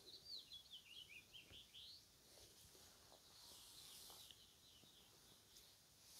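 Faint small bird singing: a quick run of short, high chirps in the first two seconds, with a few more scattered chirps around the middle.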